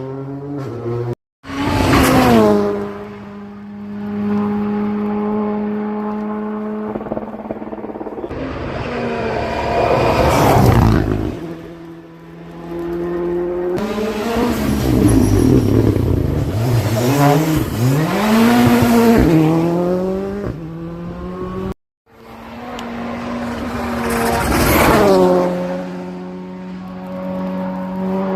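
Rally cars at speed on a stage, engines revving hard through the gears and passing close by, the pitch dropping as each goes past; in the middle an engine's revs rise and fall repeatedly as a car works through corners. The sound cuts abruptly twice between separate passes.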